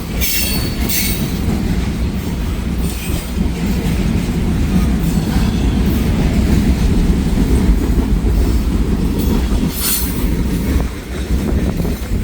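Freight train cars rolling past at close range: a loud, steady rumble of wheels on the rails, with brief high wheel squeals just after the start and again about ten seconds in.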